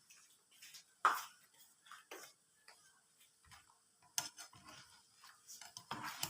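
Light, scattered clinks and clatters of kitchen utensils and dishes, the sharpest about a second in and a quick run of them near the end.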